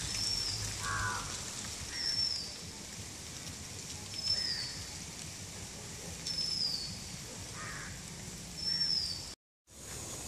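A bird repeating a short, high, falling whistle about every two seconds, with other fainter bird calls lower down. A steady high hiss runs underneath, and the sound cuts out briefly near the end.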